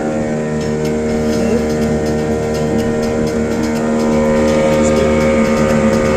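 Motorboat engine running steadily at a constant pitch, getting a little louder about four seconds in.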